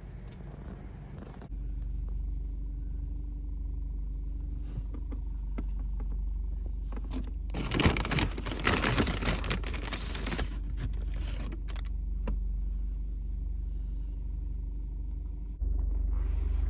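A vehicle's steady low rumble. A loud burst of crackly noise runs from about eight to twelve seconds in.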